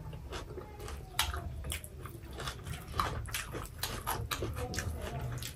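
Close-up eating sounds of two people eating rice and pork curry by hand: chewing and lip-smacking, with many short, crisp clicks throughout.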